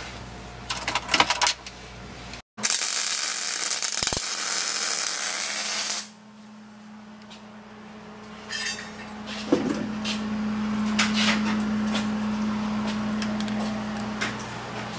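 Light metallic clinks of tools, then a loud hiss of escaping air from the truck's air-ride system for about three and a half seconds, then a steady low hum with a few scattered clinks.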